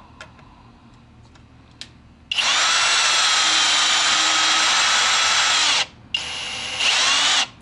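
Kobalt 24V XTR cordless drill driving a screw on clutch setting 4. The motor runs steadily for about three and a half seconds, stops briefly, then runs again for about a second, with the pitch rising near the end. The screw strips out, a sign that setting 4 gives too much torque for this screw.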